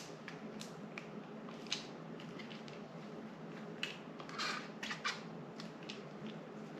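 Scattered light clicks and a brief scrape from a camera clamp mount and phone-holder attachment being handled and fitted together by hand.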